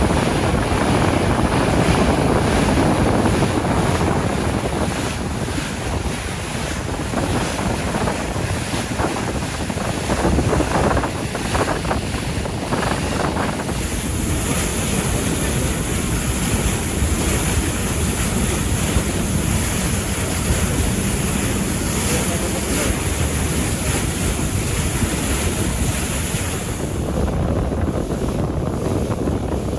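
Wind buffeting the microphone over the steady rush of waves and open water.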